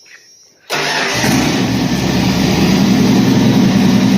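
Ford F-350's 7.5 L (460) big-block V8, breathing through Hedman headers and a Black Widow Neighbor Hater muffler, starts suddenly about two-thirds of a second in and keeps running loud and steady.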